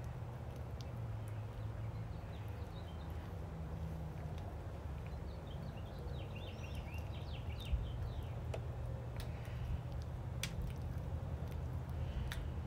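Birds chirping outdoors, with a quick run of short high calls about six to eight seconds in, over a steady low hum. A couple of faint clicks come late on.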